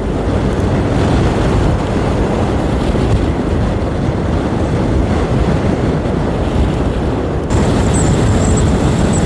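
Steady rush of wind and road noise from a 125cc motorcycle being ridden at speed, the wind blowing over the microphone. About seven and a half seconds in, the noise turns brighter and a little louder.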